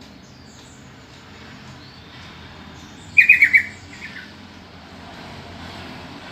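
Yellow-vented bulbul call: a quick run of four or five bubbly notes about three seconds in, followed by a couple of fainter notes.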